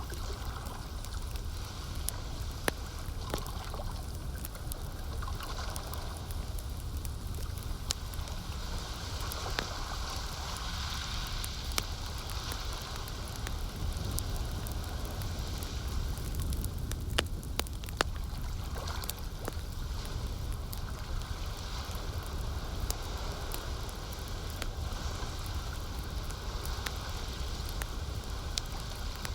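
Campfire crackling with frequent sharp pops, over a steady low rumble of lapping lake water.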